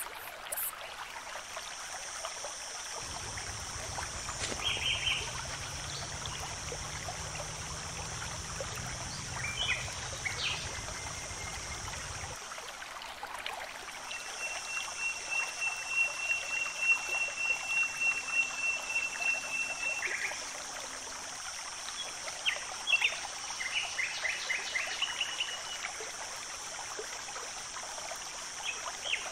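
Nature ambience of running water with birds chirping: short scattered chirps, and one long high trill lasting several seconds through the middle. A low hum sounds under it for the first third or so.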